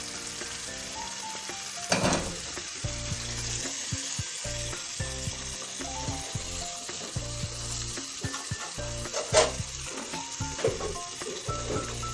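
Thick masala and fried mutton pieces sizzling in a frying pan while they are stirred and roasted together with a spatula. The spatula knocks sharply against the pan twice, about two seconds in and again, louder, about nine seconds in.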